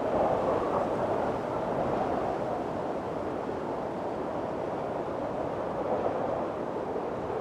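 Windstorm: strong wind blowing as a steady rushing noise, easing slightly in the first second.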